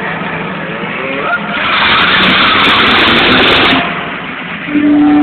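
Stunt vehicle engine and tyre noise at full power. It surges loud about one and a half seconds in, eases off before four seconds, then surges again near the end.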